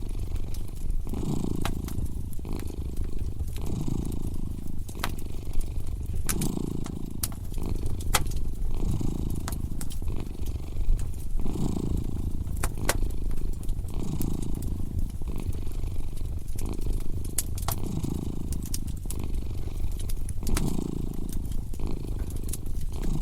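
A cat purring in slow swells that come and go about every two and a half seconds, over a wood fire crackling with frequent sharp pops.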